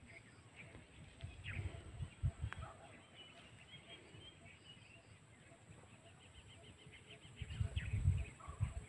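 Birds chirping outdoors, with a quick run of repeated high notes partway through. Low rumbles come through about two seconds in and again near the end.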